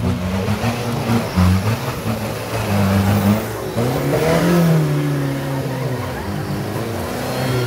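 4x4 off-road vehicle engine revving, its pitch shifting up and down, with a rise and fall in revs about midway.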